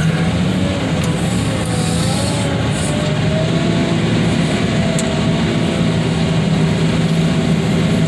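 Heavy machine's engine running steadily under load, with a fainter whine that wavers slightly up and down.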